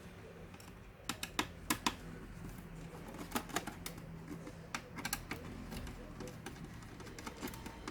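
Irregular light clicks and taps of small plastic and metal laptop parts being handled and unclipped during disassembly, coming in small clusters of a few clicks each.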